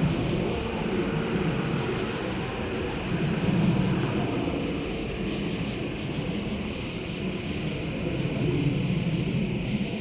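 Low, steady drone of a low-flying aircraft's engines passing overhead, swelling and easing twice, which the filmer takes for the noise of the triangle-shaped craft he is watching. A fast, even pulsing of insects runs underneath.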